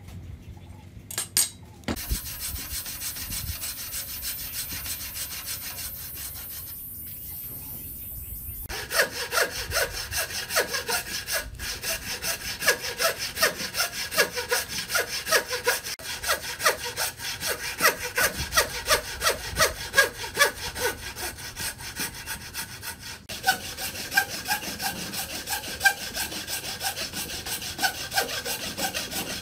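Hand saw cutting wood in steady back-and-forth strokes, about one and a half to two a second, after several seconds of a steady hissing noise.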